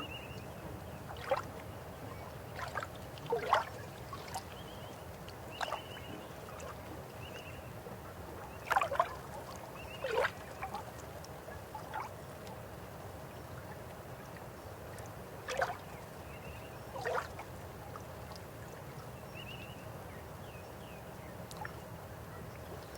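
Flowing river water: a steady rushing with short gurgles and splashes every second or few, the loudest cluster about nine to ten seconds in.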